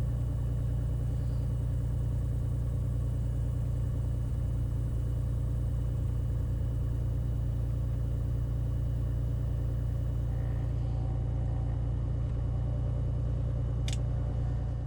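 Beechcraft Bonanza's piston engine running steadily at low power as the plane taxis after landing, a constant low drone heard inside the cockpit. A brief click near the end.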